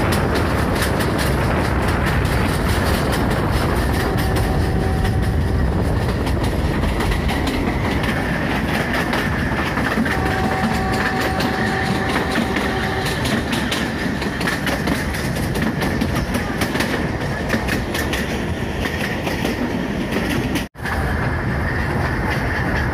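Kangra Valley Railway narrow-gauge train running, heard from aboard a coach: steady rumble with wheels clattering over the rail joints. A faint steady tone sounds twice, about four and ten seconds in, and the sound cuts out for an instant near the end.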